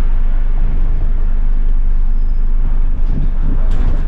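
Passenger shuttle bus's diesel engine running with a steady low rumble.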